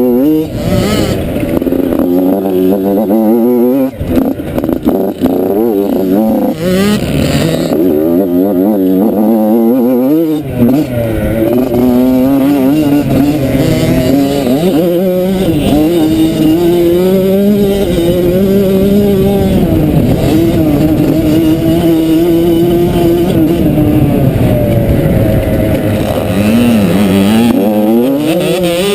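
Motocross dirt bike engine being ridden hard, revving up and easing off again and again, its pitch climbing and dropping as the throttle opens and closes. It settles into a steadier note for several seconds in the second half.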